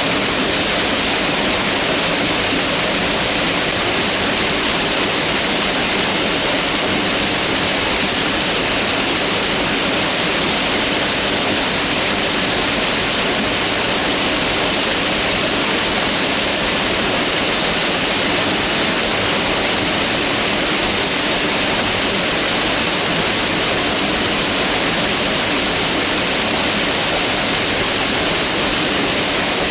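Mountain river water rushing steadily over rocks, a constant, unbroken hiss.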